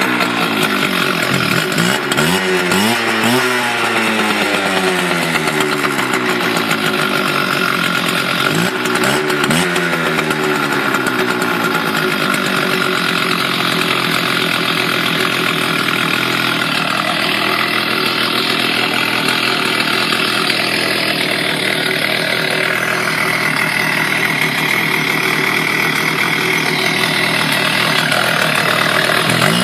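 Stihl TS400 cut-off saw's two-stroke engine running after a cold start, loud. Its pitch swings up and down several times in the first ten seconds, then it runs steadily, rising again at the very end.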